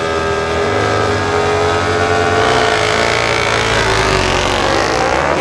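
Several flat-track racing motorcycle engines held at steady revs together, a chorus of level engine tones that sag slightly, as the bikes sit on the start line for a race.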